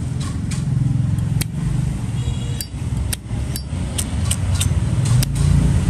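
Brass Zippo lighter's hinged lid repeatedly clicked open and snapped shut: about ten sharp metallic clicks, most in the second half. Under them runs a steady low rumble of road traffic.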